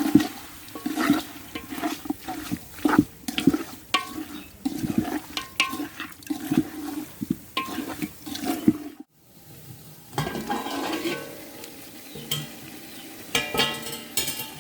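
A spoon stirring curry in a pan: repeated scrapes and knocks of the spoon against the metal over sizzling, for about nine seconds. After a short break a steadier, softer bubbling noise follows.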